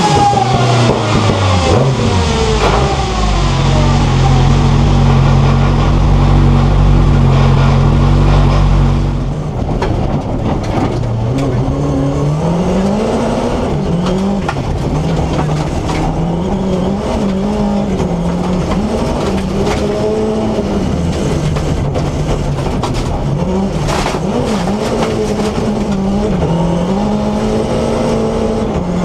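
BMW E30 rally car's S14B25 four-cylinder engine running. Its revs fall from high and then hold steady and loud for several seconds. About nine seconds in the sound changes to a quieter engine note whose revs rise and dip again and again.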